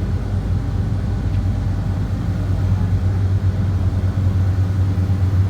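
Ferry's diesel engine droning: a steady low hum that grows slightly louder about halfway through.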